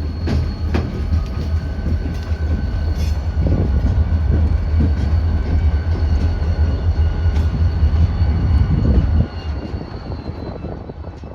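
A light-power consist of BNSF locomotives (two EMD SD40-2s and a GP39-3) running past, with a deep diesel engine sound, wheel clicks over the rail joints and a faint steady high whine. The low engine sound drops away suddenly about nine seconds in, and the rest fades out near the end.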